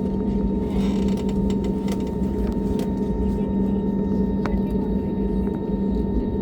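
Steady drone inside an airliner cabin in flight: engine and airflow noise with fixed hums over a low rumble, and a few faint clicks or creaks from the cabin.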